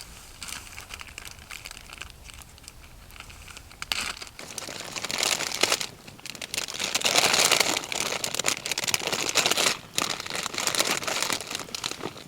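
Crinkling, rustling handling noise. It starts modestly, grows much louder about four seconds in, and is loudest in the middle, with a brief lull near the end.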